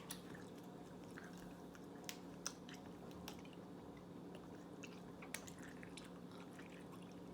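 Faint chewing of a green apple flavoured candy, with a few small mouth clicks, over a low steady hum.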